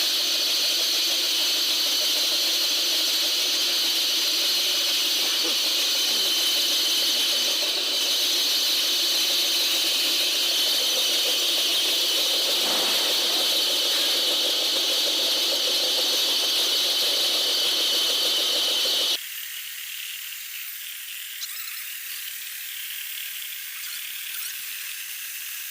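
Cacao grinder running steadily with a high-pitched squealing whine, grinding cacao beans. About nineteen seconds in the sound drops suddenly to a quieter, thinner hiss.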